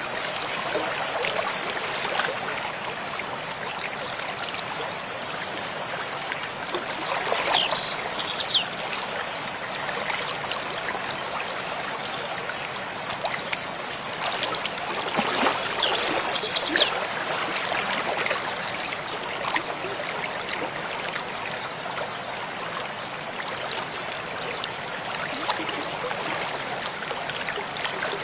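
Mountain stream flowing with a steady rush of water. A bird sings a short quick phrase of high notes twice, about eight and sixteen seconds in.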